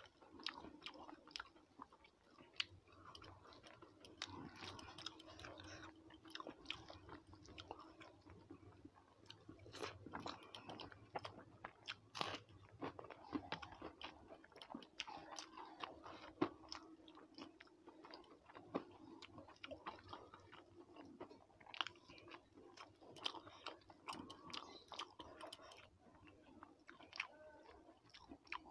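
A person chewing and crunching food close to the microphone, with scattered soft clicks and squelches of rice being mixed by hand on a plate; faint throughout.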